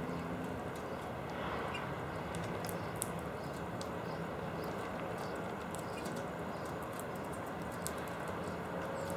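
Small birds pecking and shuffling at a feeder, making many light, irregular clicks and taps over a steady background hum.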